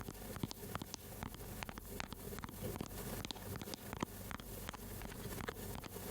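Quick, irregular tapping, several light taps a second.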